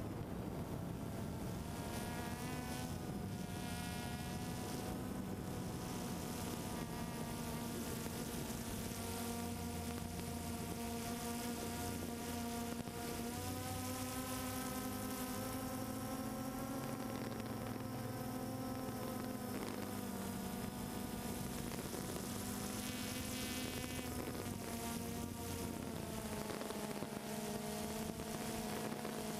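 Multirotor drone's electric motors and propellers whining with a buzz that drifts up and down in pitch as the craft holds and adjusts its position.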